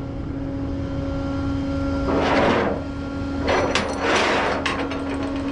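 A tow truck running with a steady hum, with two swells of rushing, hissing noise, about two and three and a half seconds in.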